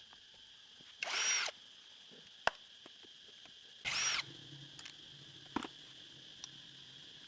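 A power tool run in two short bursts of about half a second each, about three seconds apart, with a few sharp knocks between them.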